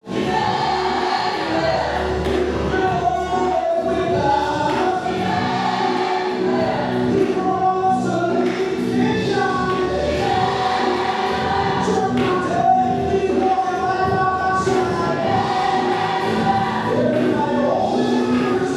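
A gospel choir singing held, moving notes with musical backing.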